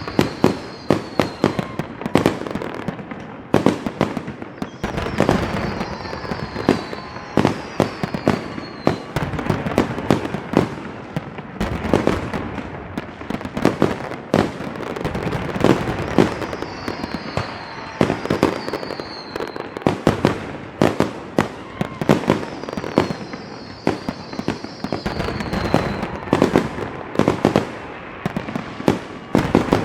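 Fireworks going off in rapid succession: a dense run of sharp bangs and crackling reports, with repeated whistles that fall in pitch, several in a row at a time.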